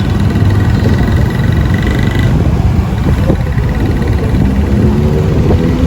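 Motorcycle running along the road, a steady loud low rumble of engine and road noise.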